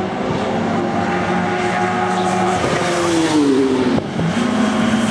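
Saloon and sports racing cars running past on the circuit under power. One engine note falls steeply in pitch about halfway through, and another car's steady engine note takes over near the end.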